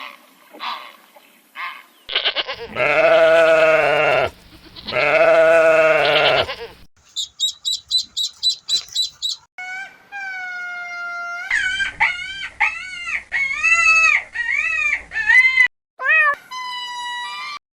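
A run of farm animal calls: a few short calls at first, then two long, loud goat bleats, followed by quick high-pitched chirping and a string of repeated rising-and-falling high calls.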